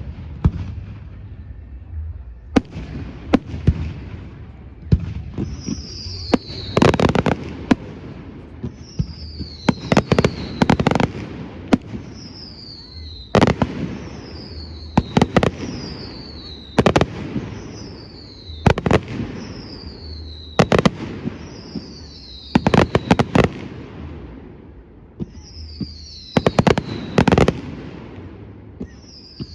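Fireworks display: a steady run of shells, each a high whistle falling in pitch that ends in a quick cluster of sharp bangs, about every two seconds.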